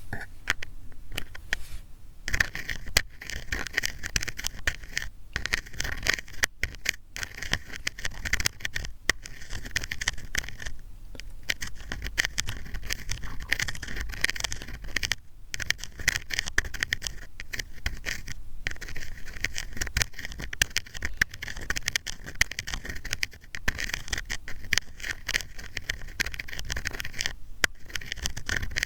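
ASMR ear-cleaning sounds: an ear pick scraping and scratching close to the microphone in a dense run of small scratches and clicks, with short pauses now and then.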